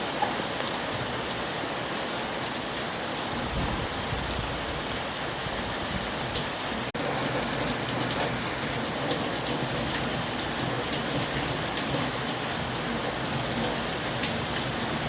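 Heavy rain falling steadily, with many sharp individual drop hits. About seven seconds in the sound drops out for an instant, then comes back slightly louder.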